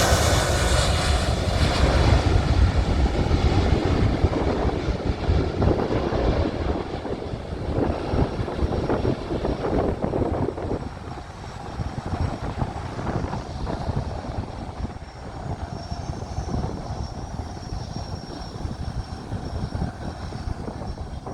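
Boeing 777-300ER's GE90 jet engines running at go-around thrust, loud at first and fading as the airliner climbs away after an aborted landing. A low, gusty wind rumble runs underneath.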